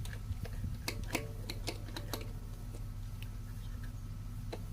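Small sharp clicks and taps of a screwdriver working a screw out of a backpack blower's cover, several in the first two seconds and one more near the end, over a steady low hum.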